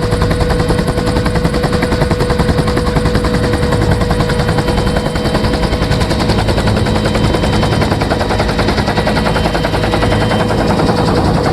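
Two-blade Bell UH-1 Huey main rotor in flight: a loud, rapid, even blade slap with a steady turbine whine underneath.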